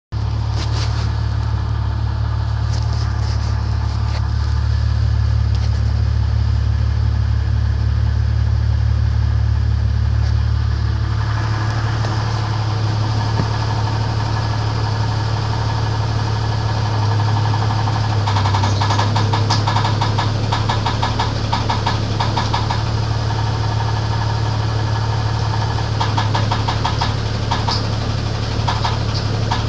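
Four-litre engine of a 1994 Jeep Grand Cherokee idling with a repeated knock from inside the engine. The knock comes through as a fast run of ticks, more prominent in the second half.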